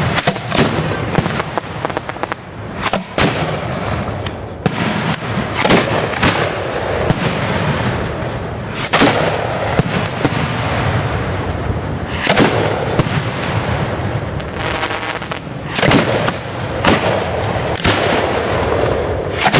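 1.3G display fireworks going off in quick succession: a dense run of sharp bangs and shell bursts over continuous crackling, with a few louder reports standing out among them.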